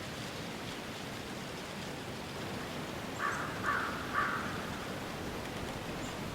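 Steady hiss of rain ambience, with three short, harsh crow caws about halfway through, each about half a second apart.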